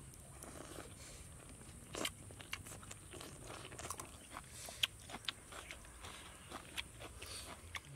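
Grilled scorpions being bitten and chewed, in irregular crisp crunches.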